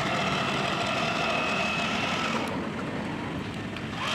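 Remote-control model tractor running, a steady high electric-motor and gear whine over a constant mechanical hum. The whine drops away about two-thirds of the way through.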